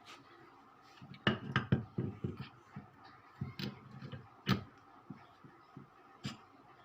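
Irregular knocks and clicks of tools and metal parts being handled during work on a washing machine motor, busiest in the first few seconds and thinning out after.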